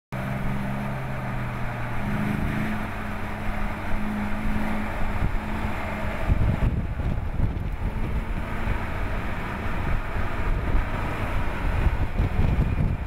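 Dodge Challenger SRT8 392's 6.4-litre HEMI V8 running at a steady pace. The engine note holds steady for the first half, then turns into a rougher low rumble with wind buffeting the microphone from about six seconds in.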